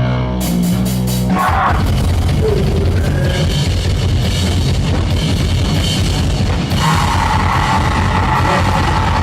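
Live noisecore played by a full band: a sustained, distorted low chord until about a second and a half in, then a fast, dense wall of distorted guitar and rapid drumming.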